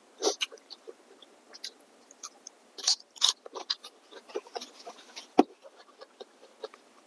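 Close-miked eating sounds: chewing with irregular wet mouth clicks and smacks, a few louder ones standing out, the sharpest about five seconds in.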